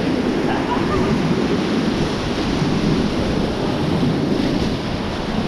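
Beas river white water rushing loud and steady around a raft, with wind buffeting the microphone.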